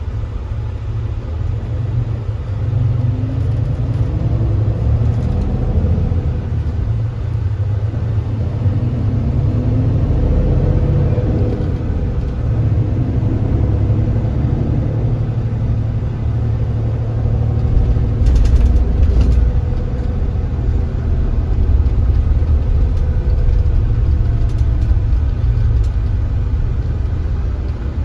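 Kia Granbird Sunshine coach's engine running under way with a steady low rumble, its note rising twice in the first half as the coach picks up speed. There is a brief clatter about 18 seconds in.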